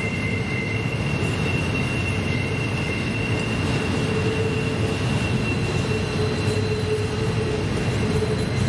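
Norfolk Southern freight train cars rolling steadily past on the curve: a continuous low rumble of steel wheels on rail, with steady high wheel squeal from the flanges binding on the tight curve.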